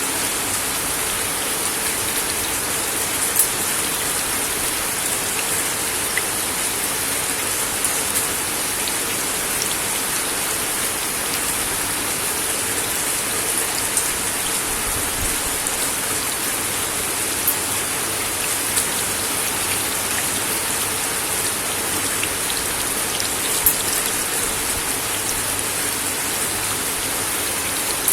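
Steady rain falling on a wooden deck, a dense even patter with a few louder single drops striking now and then.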